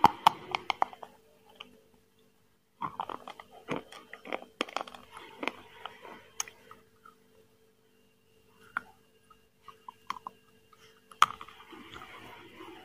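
Close-up eating sounds: chewing with wet mouth clicks and smacks, in several bursts with short silent pauses between. A faint steady hum runs underneath.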